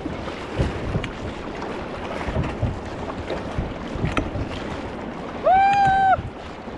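Rushing river water and wind on the microphone aboard a paddle raft, with irregular splashes and knocks. About five and a half seconds in comes a loud, high-pitched yell lasting under a second.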